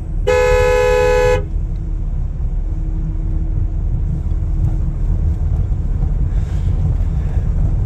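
Vehicle horn honked in one blast of about a second, two notes sounding together, over the steady low rumble of a vehicle driving on a snowy road.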